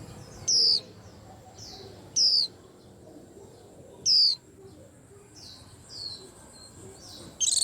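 White-eye calling: four loud, short, high chirps, each falling in pitch and spaced a couple of seconds apart, with softer chirps between them.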